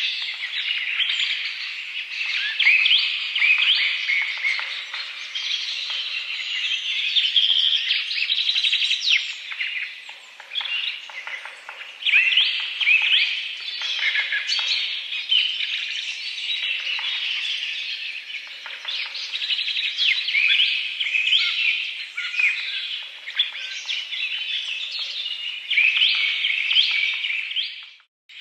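Many birds chirping and singing at once, a dense chorus of short overlapping calls. It cuts out briefly right at the end.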